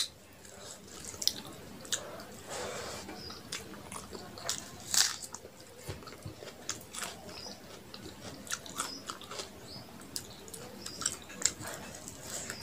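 Close-miked chewing of a mouthful of rice and chicken curry, with irregular wet mouth clicks and smacks. Fingers mix rice on a metal plate in between.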